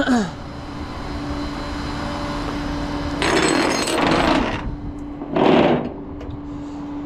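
Flatbed truck's hydraulic bed system running with a steady whine, with two loud hissing rushes, one about three seconds in and a shorter one about five and a half seconds in, as the bed is put away.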